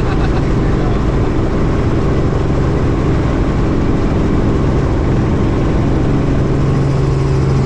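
Helicopter running: a loud, steady drone of rotor and engine, with a low hum that grows stronger about six seconds in.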